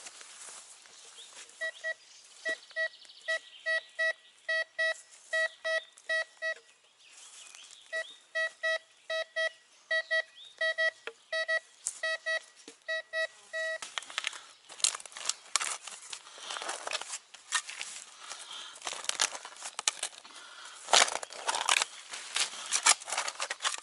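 Metal detector beeping repeatedly on a buried target, a steady single-pitched beep about two to three times a second, with a short pause midway. The beeping then stops, and the scraping and crunching of digging into soil follows.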